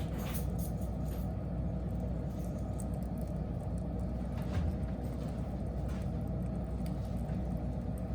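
Wood fire burning with a steady low rumble and a few scattered crackles and pops, the loudest about four and a half seconds in.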